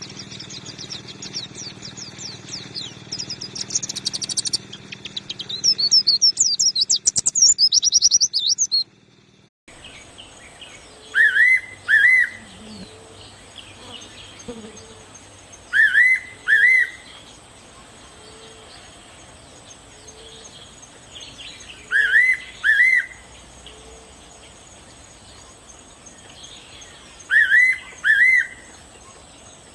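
Songbird singing a fast, high twittering song that gets louder toward the end of its first stretch, then cuts off sharply. After the cut, a bird gives loud two-note calls about every five to six seconds, four times, over a steady high-pitched hiss or insect whine.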